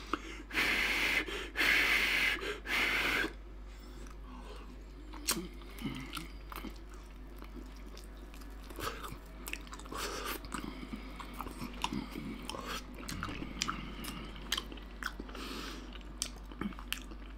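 Three loud puffs of breath in the first three seconds or so, then a person without teeth gumming a slice of pork belly: soft, wet smacking and small clicks of toothless chewing.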